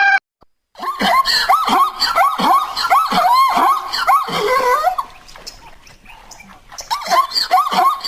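An animal giving rapid, repeated short squealing calls, two or three a second, which die down for a couple of seconds past the middle and then start again.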